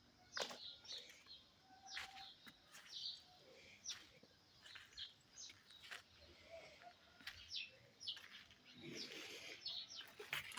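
A small bird chirping: short, high chirps repeated irregularly about once or twice a second, with some faint clicks.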